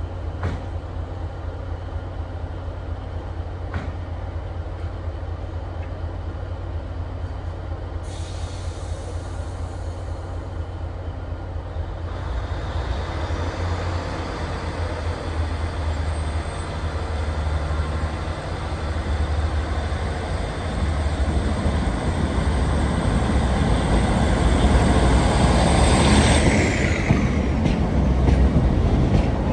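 A train moving along the track, its noise growing louder over the second half, with a thin high-pitched whine that drops away sharply about four seconds before the end. A steady low hum runs underneath.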